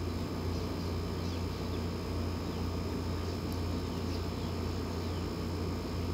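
Faint, short, high chirps of small birds, a few times, over a steady low hum.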